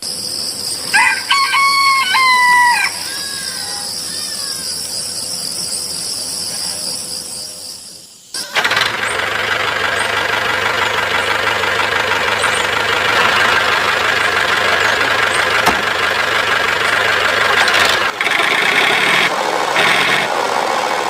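A rooster crows once near the start over a steady high-pitched whine. About eight seconds in the sound cuts to the homemade mini tractor's motor running steadily and loudly.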